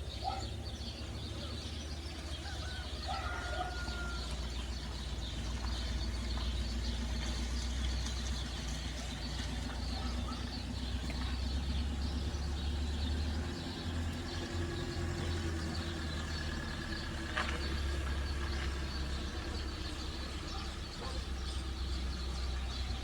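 Many small birds chirping over a steady low rumble, with a short whistled bird note about three seconds in and a single sharp click about three quarters of the way through.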